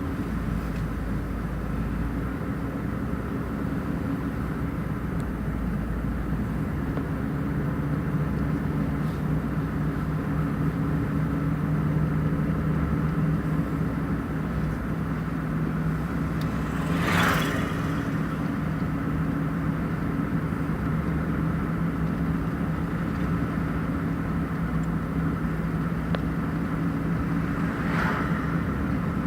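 A motor vehicle driving, with a steady engine and road hum. A brief whoosh comes about 17 seconds in and a fainter one near the end.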